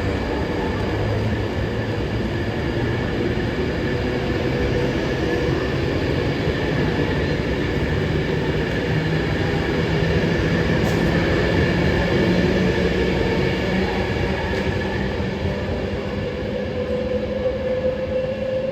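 Train at a station platform, a steady mix of machinery tones and rail noise, with one tone slowly rising in pitch near the end.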